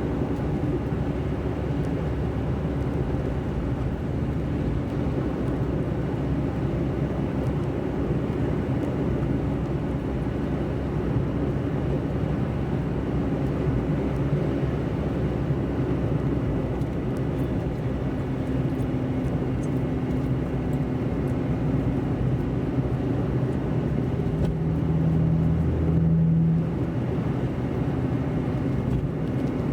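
Car driving: a steady low engine hum and road rumble, with a brief louder engine note about 25 seconds in.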